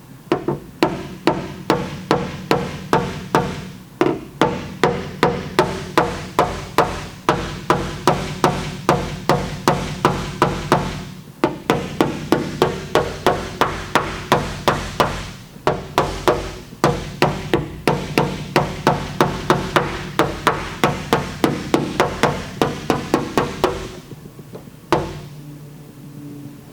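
Rapid, even hammer taps on the steel liftgate skin, about three a second, with two short pauses and stopping near the end after one last tap. They come from knocking down high spots around a dent while a glue-pull bridge lifter holds the low spot under tension.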